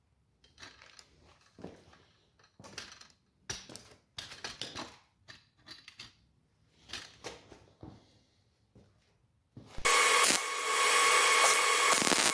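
Scattered knocks and scrapes of metal being handled, then near the end an angle grinder starts up and runs steadily with a whine, working on the steel frame.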